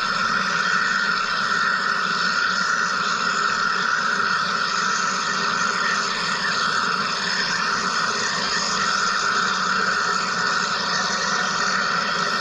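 Wire EDM machine running: a steady, unchanging hiss and hum.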